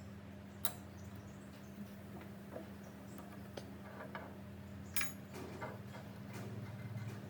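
Scattered light clicks and taps, two of them sharper, over a steady low hum.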